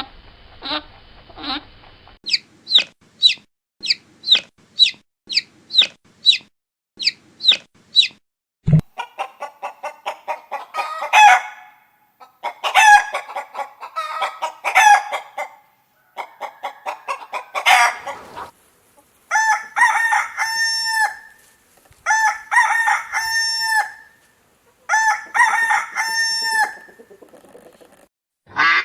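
Chicken sounds in sequence. First a run of short, high chick peeps about two a second, then hens clucking and cackling, then a rooster crowing three times near the end.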